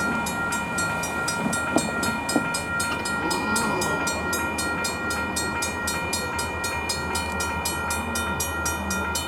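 Railroad warning bell ringing rapidly, about four strikes a second, each strike leaving a steady ring, over the low rumble of a train at a grade crossing. Two short knocks come about two seconds in.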